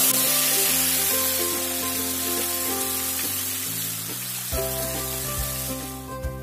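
Yogurt-marinated chicken hitting hot oil in a kadai and sizzling. The sizzle starts suddenly as the pieces go in and dies down over the next five seconds or so.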